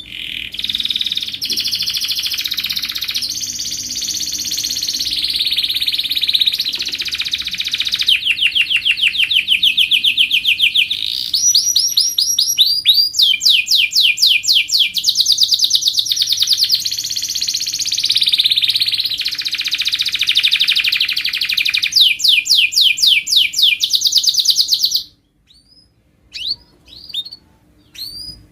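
Domestic canary singing one long, unbroken song of fast trills, each run of repeated notes at its own pitch, stopping abruptly about 25 seconds in, followed by a few short chirps. A faint steady low hum sits beneath the song.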